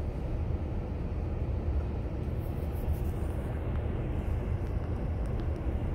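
Freight train of covered hopper cars rolling past close by, a steady low rumble of wheels on the rails.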